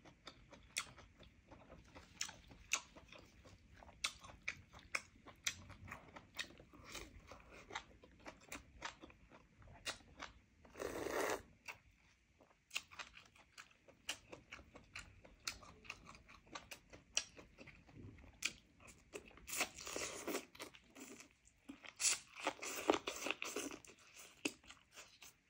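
Close-up chewing of roast chicken: a steady run of wet mouth clicks and smacks, with a few louder, longer bursts of chewing noise around the middle and near the end.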